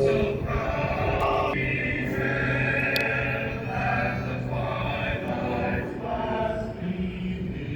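Singing heard over loudspeakers, with long held notes that step from one pitch to the next.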